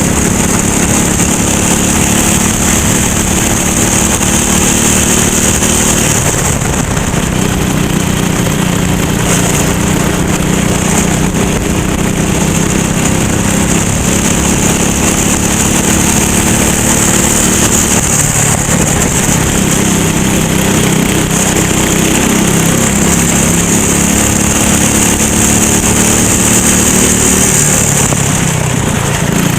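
Racing kart engine running under load, its pitch rising and falling over and over as the kart speeds up and slows. A steady high hiss runs along with it.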